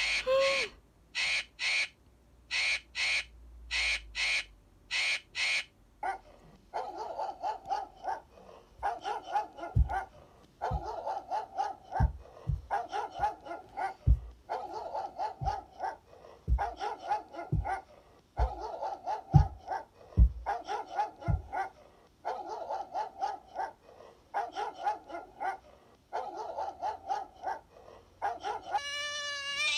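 Animal sound effects played through a screen's small speaker. For about the first six seconds harsh cawing bird calls come in evenly spaced pairs. Then a dog barks over and over in a steady series, and a cat starts to meow near the end.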